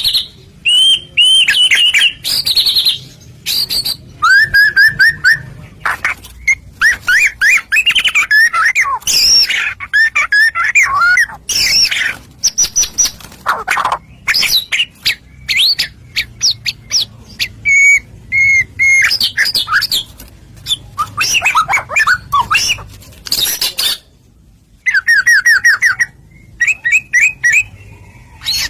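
White-rumped shama (murai batu) in full song: a loud, varied run of short whistled phrases, quick trills and sliding notes, broken by brief pauses.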